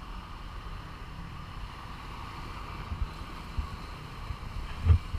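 Wind buffeting the microphone in uneven low rumbles, with a faint steady hum behind it and a sharper thump near the end.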